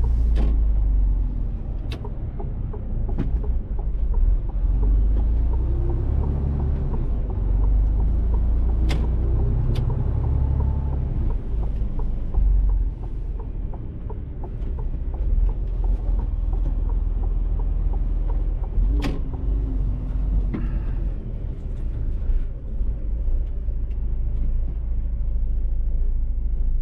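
Mercedes-Benz Actros truck's diesel engine running with a low, steady drone while driving, heard from inside the cab, with a few sharp clicks and knocks scattered through it.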